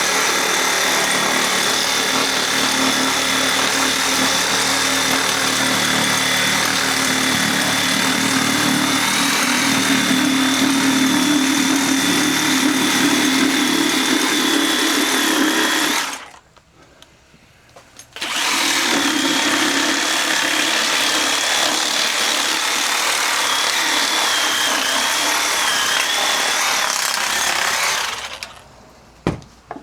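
Electric power saw cutting through a deer carcass along the backbone to split it, running steadily with a whine for about sixteen seconds, stopping briefly, then running again for about ten seconds.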